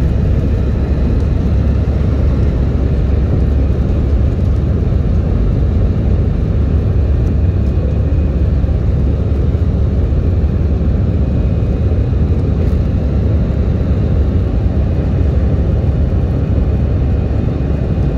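Airbus A320 jet engines and rushing air heard from inside the cabin: a steady, loud, deep rumble with a faint high whine above it.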